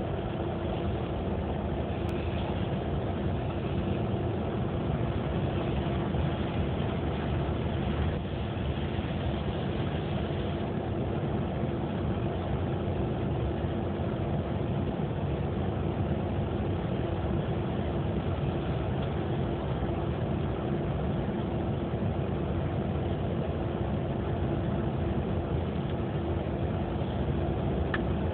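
Car engine running, a steady unbroken hum.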